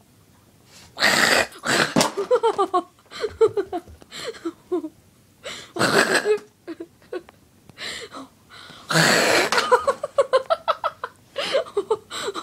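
A dog barking in quick runs of short, high yaps, broken three times by short, loud bursts of rushing noise.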